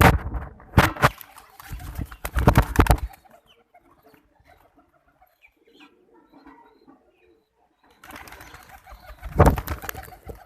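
Pigeons' wings flapping in several loud, sudden bursts over the first three seconds, then a quieter stretch with faint bird sounds, and another burst of flapping near the end.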